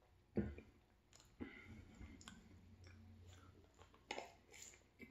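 Close-miked eating sounds: chewing, wet clicks and short crackles of a person eating a turkey sandwich. About half a second in there is a single sharp knock as a plastic water bottle is set down on the table.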